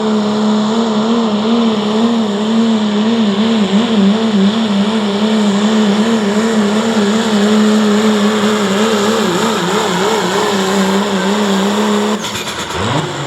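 Diesel pickup truck pulling the sled under full load, its engine held at high revs with the pitch wavering as it hooks and hops down the track. About twelve seconds in, the engine note breaks off and winds down as the pass ends.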